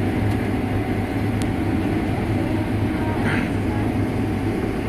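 Combine harvester running steadily under load, its engine and machinery giving a constant low hum. A brief higher hiss cuts in about three seconds in.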